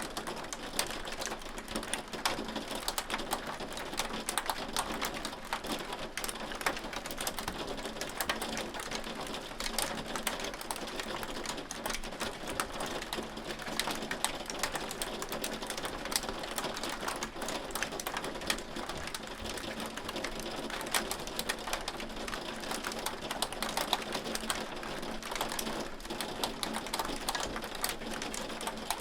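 Hail falling steadily: a dense stream of rapid clicks from hailstones striking over an even hiss.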